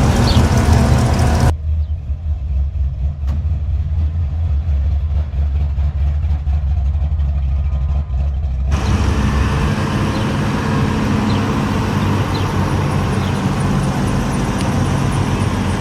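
Car engines running with a steady low rumble. From about a second and a half in until about nine seconds the sound turns dull and muffled, with only the low rumble left.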